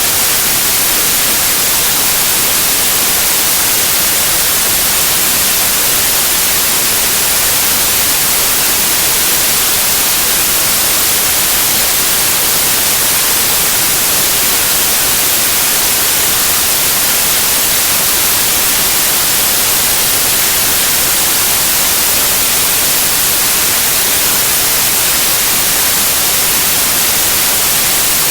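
Steady electronic white noise: an even, unbroken hiss, strongest in the high frequencies, used as a sleep sound to calm a colicky baby.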